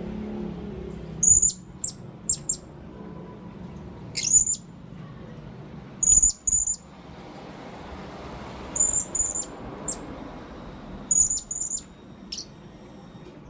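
Blue-crowned hanging parrot (serindit) calling: short, shrill, very high-pitched notes in quick clusters of two to four, repeated about every two seconds.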